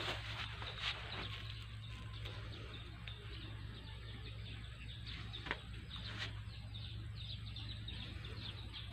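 Birds chirping over open fields, a steady stream of short high chirps, over a low steady hum, with a couple of sharp clicks about halfway through.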